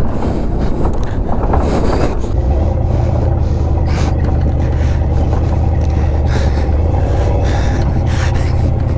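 Pickup truck engine running steadily under load as the truck drives over rough off-road ground, with scattered knocks and rattles from the body.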